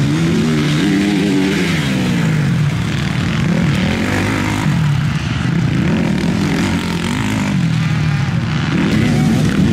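Off-road racing engines revving hard, their pitch climbing and dropping again and again as riders open and close the throttle around the track.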